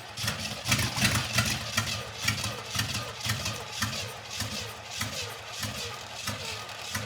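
Small-block Chevy 350 V8 running roughly on an engine stand, with uneven lumps about twice a second. It is running out of fuel, fed by a temporary carburetor that gives poor throttle control.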